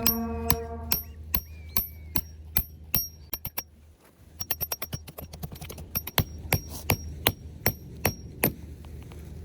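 Repeated sharp, ringing metallic knocks, about two to three a second, with two quicker runs of strikes around the middle and a brief pause about four seconds in.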